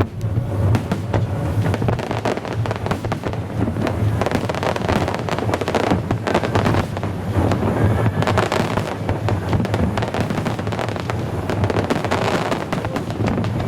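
Aerial fireworks bursting in a dense, irregular string of sharp pops and crackles, over a steady low rumble.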